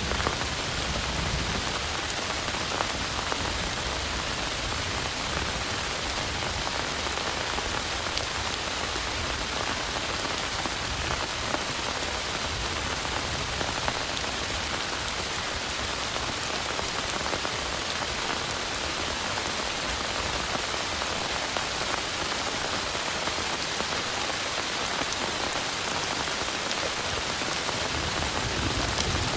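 Heavy rain falling steadily. A low rumble of thunder dies away about a second in, and another starts near the end.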